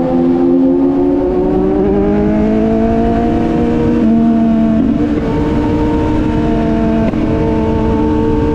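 Motorcycle engine running under load while riding, its pitch climbing slowly over the first few seconds and then changing in steps a few times, over a steady low rumble of wind on the microphone.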